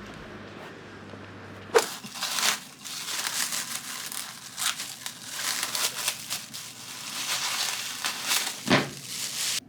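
Crinkling and crackling of something being handled, opening with a sharp click about two seconds in, with another sharp knock near the end; it cuts off suddenly.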